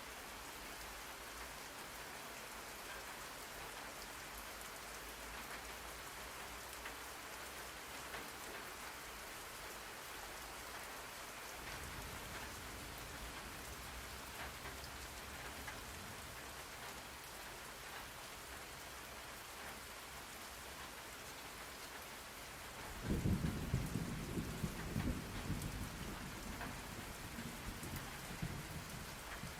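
Steady rain falling, with a low rumble of thunder rolling in about two-thirds of the way through and going on to the end.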